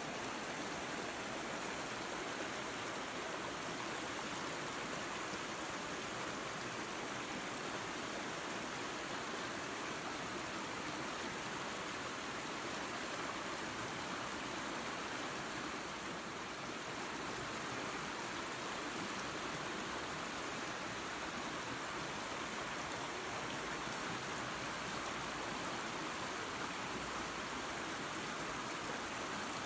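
Waterfall and creek: water running and splashing in a steady, unbroken rush.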